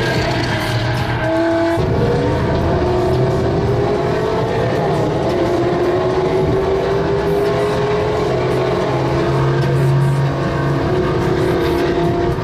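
Car engines under hard acceleration in a roll race. Their pitch breaks for a shift about two seconds in, then climbs slowly and steadily.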